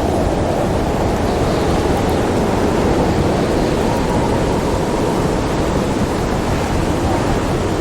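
Storm wind blowing steadily: an even rushing noise with no distinct pops or strikes.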